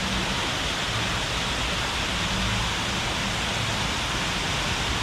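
Steady rush of a waterfall, an even unbroken noise.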